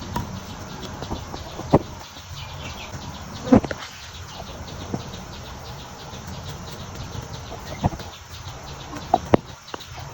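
Insects chirping steadily in the background, with about six sharp taps and clicks scattered through, two close together near the end.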